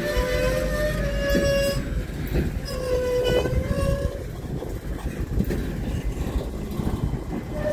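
Freight cars of a CN freight train rolling past with a steady rumble of steel wheels on rail. Scattered squealing tones, typical of wheel flanges squealing against the rail, come and go near the start and again around the middle.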